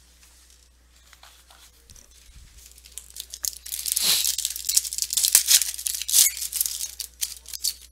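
Foil wrapper of a baseball card pack being torn open and crinkled. It starts about three seconds in as a loud, rapid run of crackles after a quiet start.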